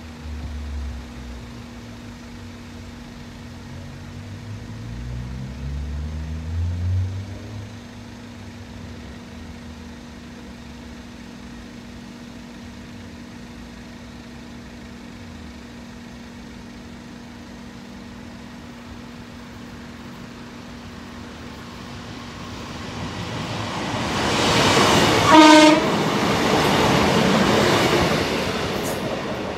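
East Midlands Railway diesel multiple unit running past over the level crossing, building up over the last several seconds, with a short horn note at its loudest. Earlier, a low engine note rises briefly about five seconds in.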